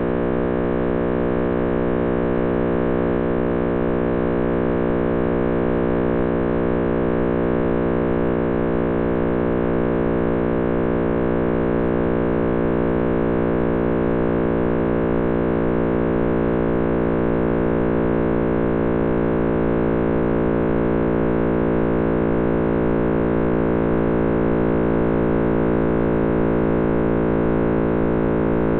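John Cramer's computer-simulated Big Bang sound, built from cosmic microwave background data shifted up into hearing range: a loud, steady, dense hum of many stacked tones, like a deep drone.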